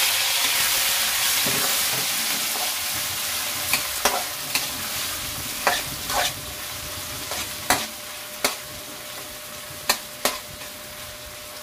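Garlic, onion and tomato sizzling in hot oil in a wok as they are sautéed, with a spatula scraping and knocking against the pan about every half second to second. The sizzle is loudest at the start and eases off as it goes.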